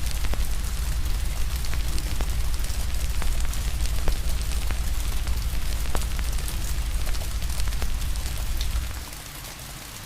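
Steady rain hiss mixed with a wood fire crackling: scattered sharp pops over the rain. A deep low rumble underneath cuts out about nine seconds in, leaving the rain quieter.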